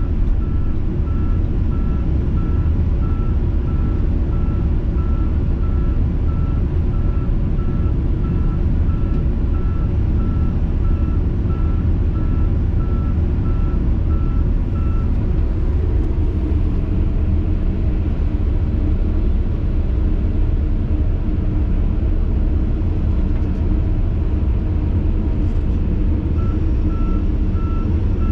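Heavy diesel truck reversing: a backup alarm beeping about twice a second over the steady low rumble of the engine. The beeping stops about halfway through while the engine keeps running, then starts again near the end.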